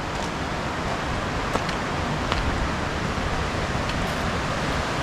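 Waterfall on a forest creek: water cascading over rocks in a steady, even rush, with a few faint ticks.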